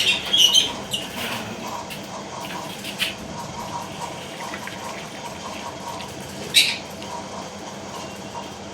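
Water poured into the lovebirds' drinking dishes, a steady run of pouring. Lovebirds chirp during the first second, and one gives a single sharp call about six and a half seconds in.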